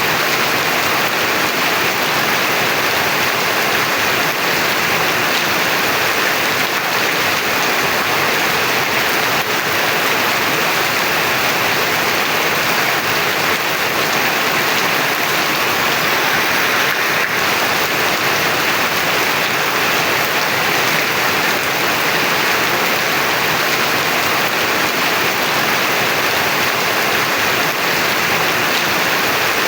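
Heavy rain falling steadily, a dense, even hiss with no thunder or other events.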